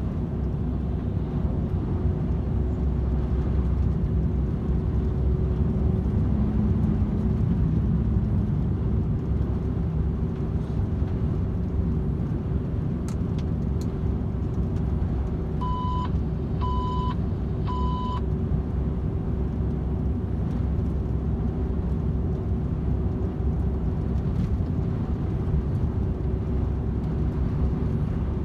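DAF XF 510 truck running at steady cruise on the motorway: a continuous drone of its PACCAR MX-13 straight-six diesel with tyre and road rumble. About two-thirds of the way through, three short electronic beeps sound about a second apart.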